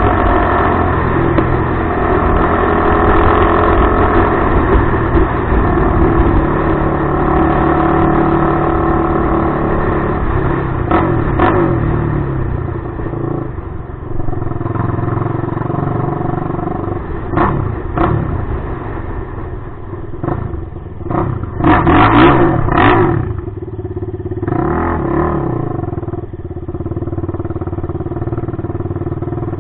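Suzuki LTR450 quad's single-cylinder four-stroke engine through a DMC aftermarket exhaust, running steadily and then revved in a series of short throttle blips in the second half, each rising and falling quickly.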